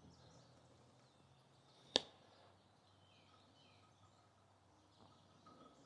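Very quiet background with faint bird chirps, broken by one sharp click about two seconds in.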